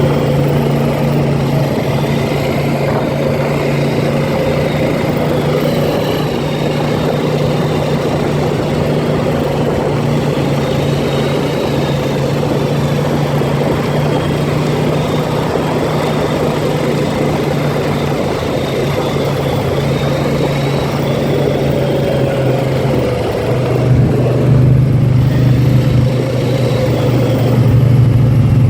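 Four-wheeler (ATV) engine running steadily while being ridden. About 23 seconds in its note drops lower and grows louder.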